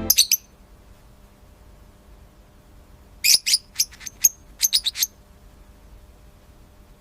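Small bird chirping in short, high chirps: three quick chirps at the start, then a rapid run of about nine more from about three seconds in to five seconds, with quiet in between.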